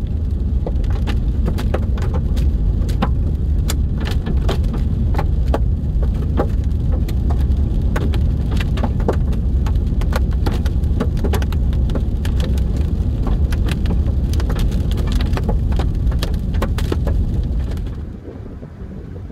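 Hailstones striking a moving car, a dense irregular clatter of sharp clicks over a heavy low rumble of road and wind noise. The sound drops away suddenly near the end.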